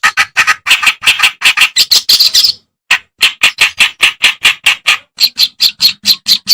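Kerak basi (reed warbler) singing: a fast run of short, grating notes, about six a second, with a brief pause about two and a half seconds in.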